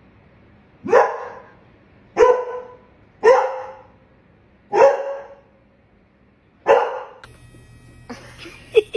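A dog barking five times, single loud barks spaced one to two seconds apart.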